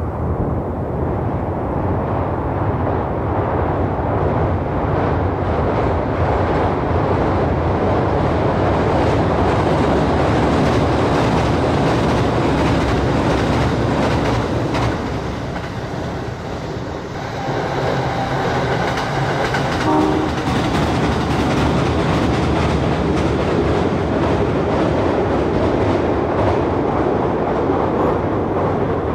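Train running on the rails, a steady loud rumble of wheels and track noise with clickety-clack. Several steady tones sound together for about three seconds a little past the middle.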